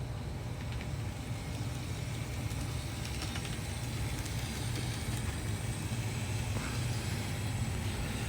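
Two DCC model steam locomotives running forward at slow speed: a steady low hum from their small electric motors and drive, with a few faint clicks.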